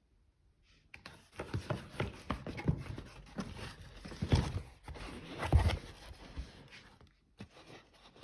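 Cardboard parcel being handled and opened: a quick run of knocks, taps and scraping rustles, with a couple of louder thumps in the middle.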